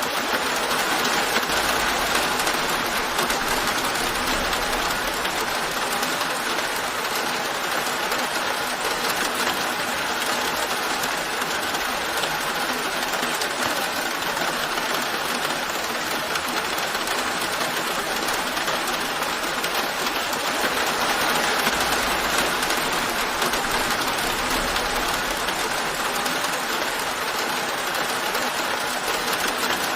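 Steady rain falling, an even hiss that swells slightly now and then but never breaks.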